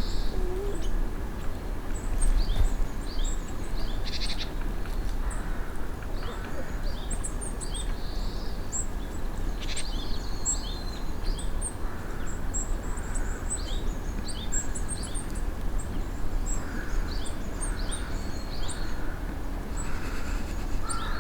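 Small songbirds chirping: many short, high chirps and a few longer calls scattered throughout, over a steady low rumble.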